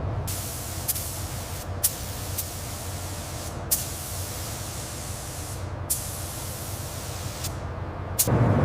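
Compressed air hissing from an air tool in long bursts, broken by short pauses with clicks between them, over a steady low rumble. Near the end the hiss stops with a click and a louder low rumble takes over.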